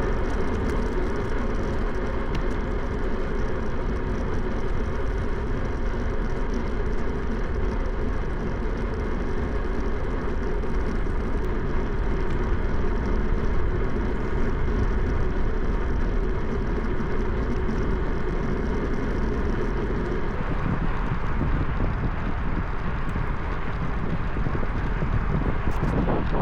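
Steady rush of wind on the microphone and road noise while riding a bicycle. The sound changes character about 20 seconds in.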